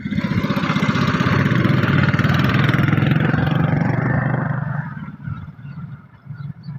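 An engine running loudly with a fast, rough pulse, then fading away about five seconds in.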